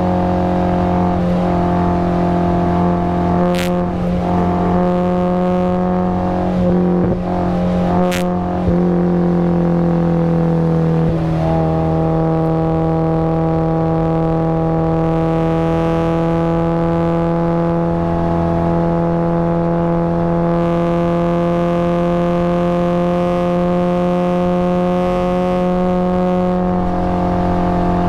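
Supercharged Mazda Miata engine running hard at high revs, holding a mostly steady pitch that dips and climbs back about a third of the way in. Two sharp clicks occur in the first third.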